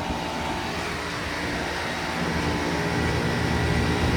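Heat pump units running in heat mode, the compressor and fan giving a steady mechanical hum with a thin whine. The hum grows louder and deeper from about halfway through.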